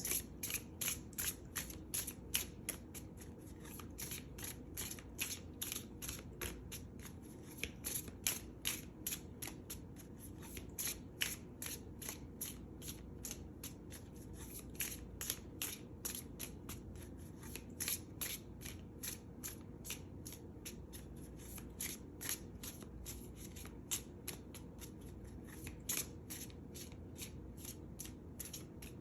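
A tarot deck being shuffled by hand: a continuous run of quick, irregular card clicks and flicks, several a second, as cards are mixed to draw a clarifier card.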